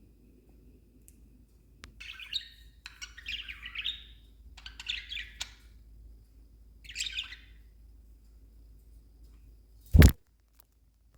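Budgerigar chattering in four quick bursts of warbling chirps. About ten seconds in, one loud, short knock.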